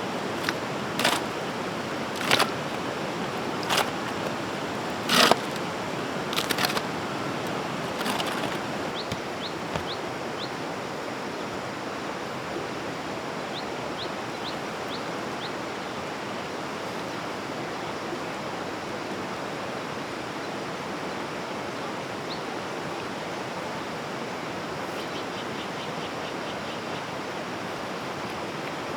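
A steady rushing hiss, like running water, under about seven sharp knocks spaced roughly a second and a half apart over the first eight seconds. Faint short high chirps come in small runs later on.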